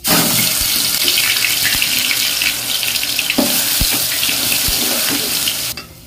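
Onion paste sizzling loudly as it hits hot mustard oil in a metal pot, a steady hiss, with a few light knocks of a metal slotted spoon against the pot as it is stirred. The sizzle cuts off suddenly near the end.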